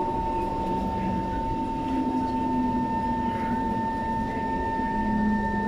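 Inside an SMRT metro train car: a steady rumble with a constant high electrical whine, joined by a higher whine about halfway through, and a lower motor tone that shifts slightly in pitch.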